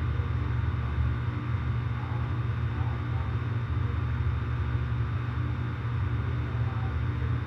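Outdoor central air conditioner condensing units running steadily, their compressors and fans making a constant low hum.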